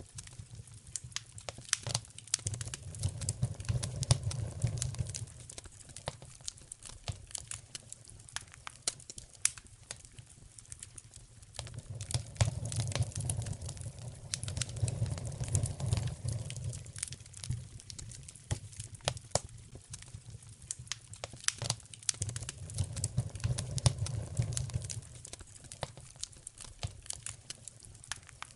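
Wood fire crackling and popping in a fireplace, with many sharp snaps throughout. A low rumble swells up and dies away three times.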